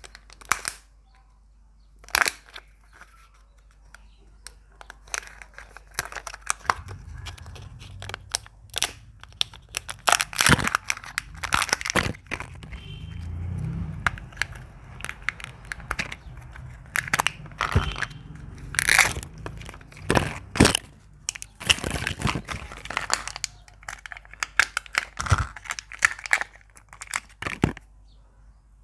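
Surprise eggs being unwrapped and opened by hand: wrappers crinkling and tearing, with many irregular sharp crackles and snaps as the egg shells crack.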